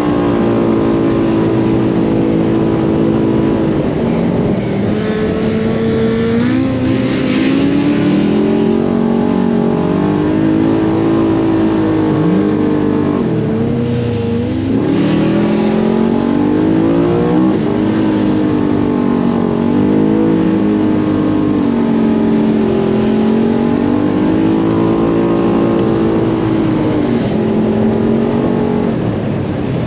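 Side-by-side UTV engine revving up and down continuously as it is driven over sand dunes, its pitch rising and falling every few seconds with throttle changes.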